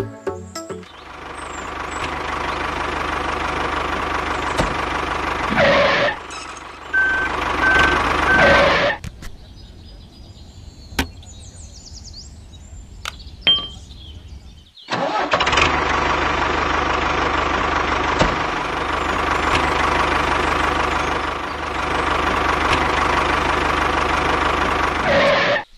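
Mini tractor's engine running steadily. It drops away for about six seconds in the middle, with a few clicks, then runs again. A short run of beeps comes about seven seconds in.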